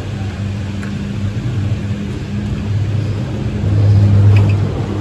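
Terminal machinery of a detachable high-speed chairlift humming steadily as the chair is carried around the bullwheel, growing louder for about a second near the end.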